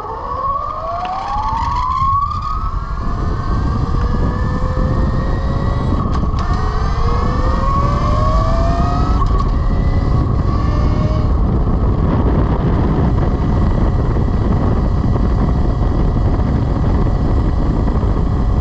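The Velimotors VMX12-F electric motorcycle's 12 kW motor whines, rising in pitch as it accelerates hard. The pitch falls back and climbs again twice as the bike shifts up through its four-speed manual gearbox. After about ten seconds the whine fades under a steady rush of wind noise at speed.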